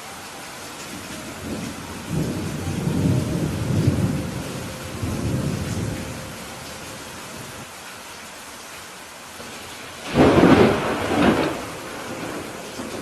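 Steady rain with thunder. A low rolling rumble builds from about two seconds in and fades by six, then a louder, sharper thunderclap comes about ten seconds in.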